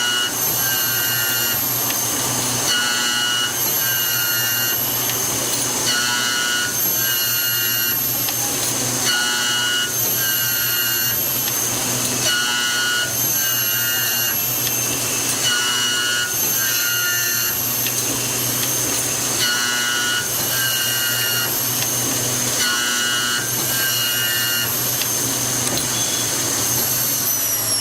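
High-speed automatic key milling machine running, its cutter spindle whining with a tone pattern that repeats about every three seconds as it works through its cutting passes. Near the end the whine begins to fall in pitch as the spindle winds down.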